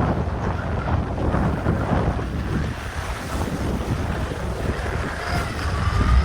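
Gusty blizzard wind buffeting the microphone, a rough rumbling noise that swells and eases, with a faint high whine coming in near the end.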